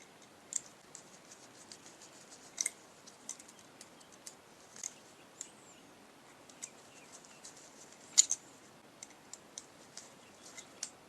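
A hose clamp being tightened onto a hose over a fitting: irregular small metallic clicks and scrapes of the clamp and hand tool, with sharper clicks about two and a half seconds and eight seconds in.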